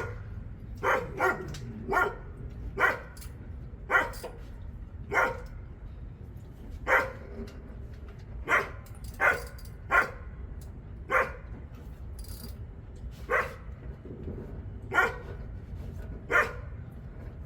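A dog barking repeatedly at an uneven pace, about fifteen short barks, over a steady low rumble.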